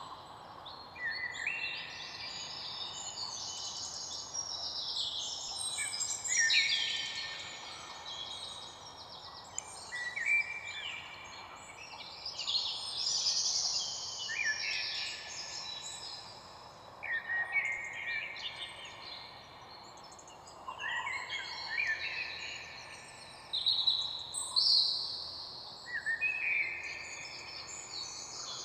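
Several birds singing and chirping at once, a steady chorus of overlapping trills and short calls.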